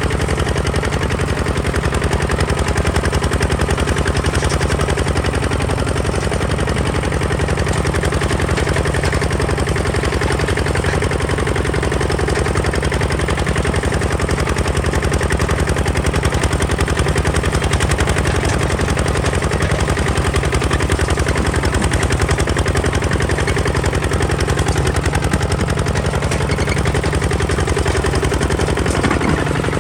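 Kubota ZT 155 DI single-cylinder diesel engine of a two-wheel walking tractor running steadily, a rapid, even train of firing beats with no let-up.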